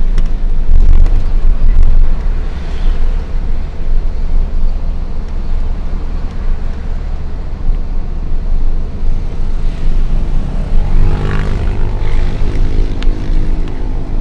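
Hino FL 260 JT truck's inline-six diesel engine running under a heavy load, a steady low drone with road noise. About ten seconds in a pitched hum of several tones joins it, with a brief swell of noise a second later.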